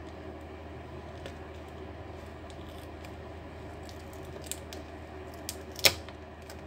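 Scattered small clicks of laptop plastic parts being handled as the screen panel is worked free from a broken hinge housing, with one sharp click a little before the end, over a steady low hum.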